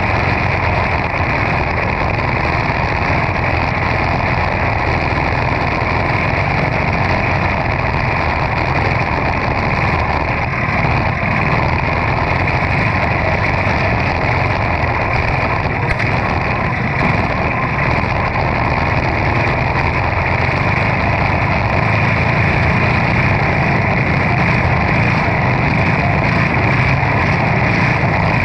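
Quarter midget race car engines, single-cylinder Briggs & Stratton Animal engines, running steadily at racing speed.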